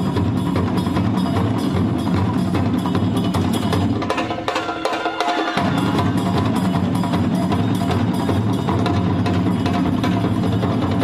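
Traditional Japanese percussion played live: drums struck in a fast, steady rhythm with sharp, clacking strokes. The deep drum sound drops out for about a second, roughly four seconds in, while the lighter strokes carry on.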